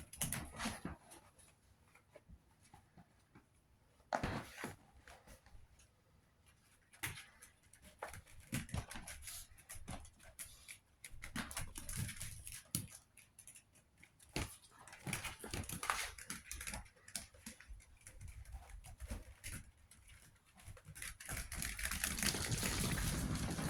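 Chihuahua puppies moving about and playing: scattered small clicks and scuffles, busier and louder near the end.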